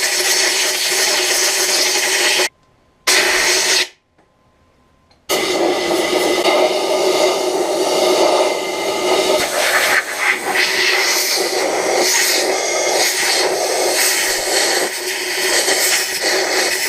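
Compressed air from an air compressor hissing loudly as it blows dust out of vacuum cleaner parts. It cuts off twice briefly, about two and a half and four seconds in.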